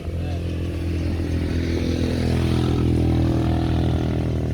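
A motor vehicle's engine running close by, growing louder toward the middle and easing off near the end, as if passing.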